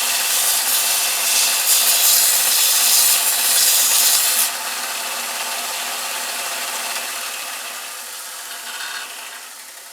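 Electric belt sander grinding down a wooden part with a loud, steady hiss. About four and a half seconds in the grinding eases off and the sander runs on more quietly, then its motor hum stops near the end and the sound winds down.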